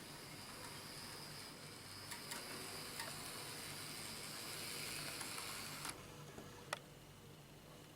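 Model Flexity 2 tram running on the layout: its small electric motor gives a faint, steady high whir with a few light clicks, stopping about six seconds in, followed by a single click.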